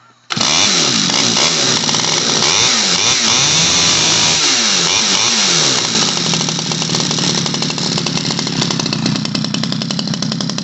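Stihl 011 AV two-stroke chainsaw, with the outer muffler cover missing, starts about a third of a second in and runs loudly, its engine speed rising and falling again and again.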